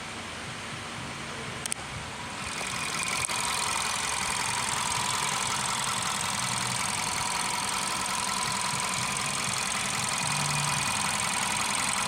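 VW Polo engine idling steadily. About two and a half seconds in it grows louder and brighter, with two short clicks around then.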